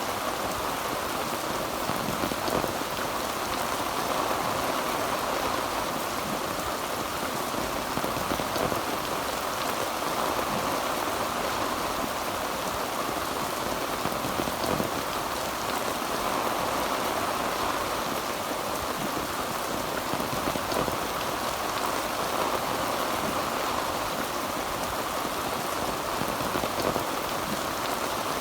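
Heavy rain falling steadily on a tin roof, an even rushing hiss of many drops.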